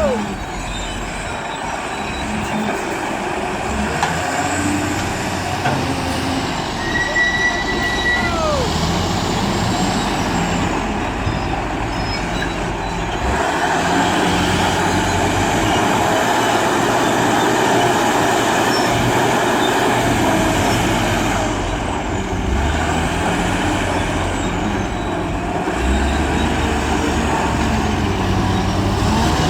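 Heavy diesel construction machinery running: a wheel loader's engine working, pulling harder and louder for several seconds in the middle. A few short squeals come in the first ten seconds.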